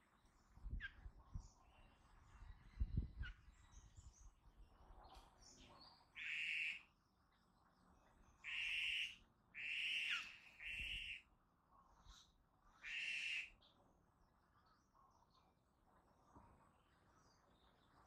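Birds calling: five short, harsh, scratchy calls through the middle stretch, over faint scattered chirps. A few low thumps come in the first few seconds.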